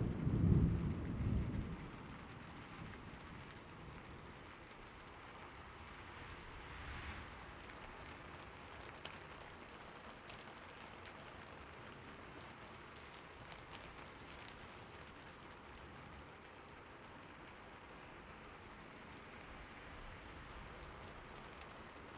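Thunderstorm ambience: a low roll of thunder fades out in the first two seconds, leaving steady rain hiss with the odd faint drop tick.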